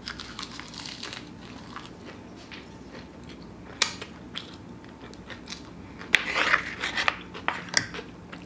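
Close-up crunching and chewing of a roasted-seaweed (nori) hand roll of sushi bake, with many short crisp clicks. About six seconds in, louder scraping and clicks follow as a wooden spoon scoops rice from a ceramic baking dish.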